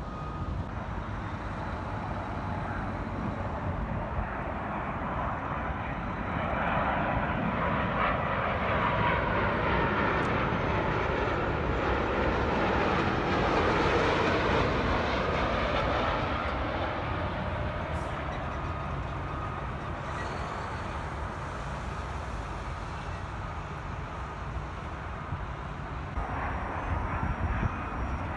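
Jet airliner on approach passing by, its engine and airflow noise swelling to a peak about halfway through and then fading away.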